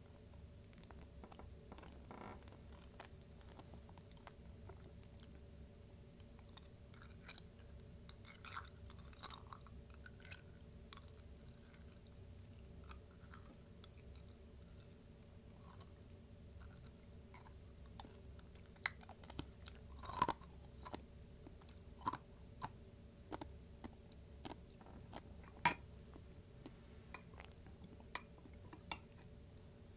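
Close-miked chewing of a chicken bowl: soft mouth sounds and small crunches, sparse at first and busier in the second half. Two sharp clicks stand out near the end, over a faint steady hum.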